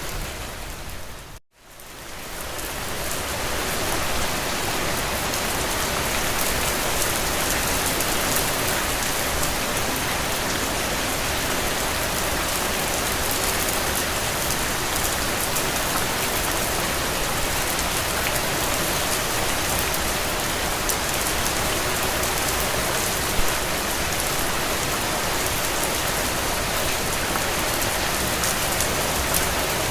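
Steady rain falling on a window, an even hiss with scattered drop ticks. About a second and a half in it cuts out to near silence for an instant, then fades back up over the next two seconds.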